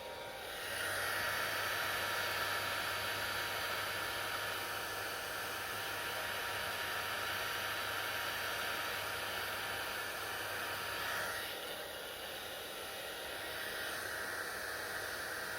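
Electric hair dryer running with a steady blowing rush and a low motor hum. It gets louder about a second in, dips about eleven seconds in, and picks up again near the end.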